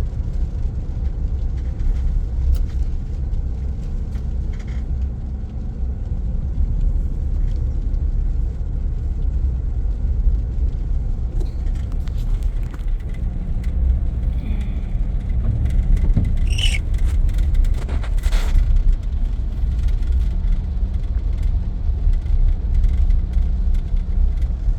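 Inside a moving pickup truck's cabin: steady low rumble of engine and road noise. A steady hum joins about halfway through, and a couple of brief sharper sounds come in the second half.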